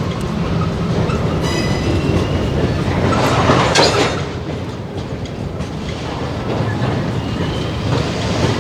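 Freight train moving through a rail yard: a diesel locomotive runs with a steady low rumble while wheels click over the rails. A brief high-pitched wheel squeal comes about a second and a half in, and a louder burst of noise peaks around three and a half seconds in.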